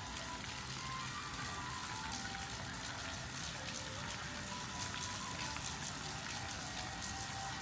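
Rainwater falling and dripping onto hard surfaces: a steady wash with many scattered small drips, and faint music in the background.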